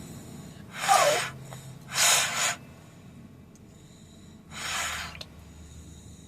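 A person laughing breathlessly: three loud, breathy gasps of laughter, the first with a brief squeaky voice in it. The first two come close together and the third follows after a pause of about two seconds.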